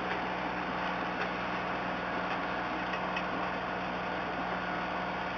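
Boat engine running steadily, a constant pitched hum under a hiss, with a few faint ticks.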